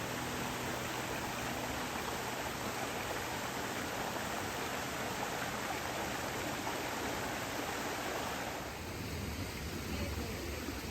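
Steady rush of water from a waterfall on a mountain river. About eight and a half seconds in, the rush turns deeper, with less hiss and more low rumble.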